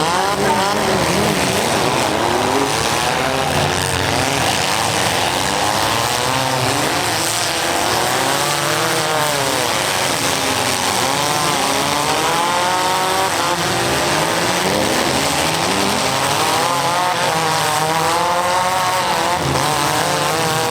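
Several small-car demolition derby engines revving up and down at once, their pitches rising and falling over one another.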